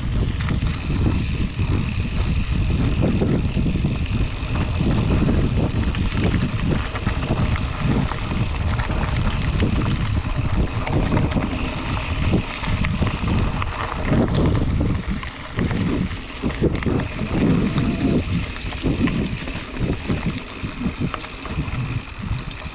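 Wind buffeting the microphone and steady tyre rumble from a Specialized Chisel hardtail mountain bike riding a dirt trail, loud and uneven throughout.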